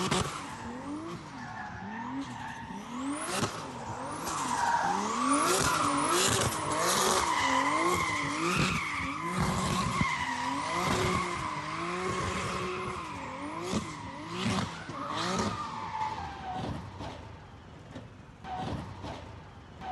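Turbocharged Mercedes W201's M104 straight-six revving up and down over and over while the car drifts, with the tyres squealing in a long steady tone. The squeal and revving die away about 16 seconds in.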